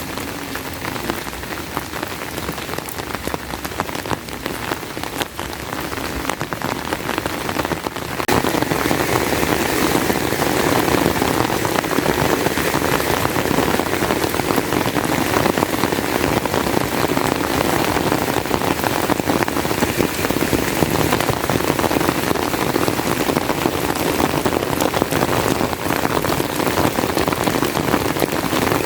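Heavy rain falling steadily, getting louder about eight seconds in.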